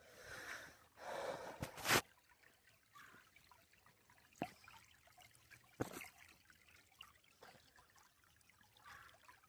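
Faint trickle of a small woodland stream, with two short rustling noises in the first two seconds and a few sharp clicks spread through the rest.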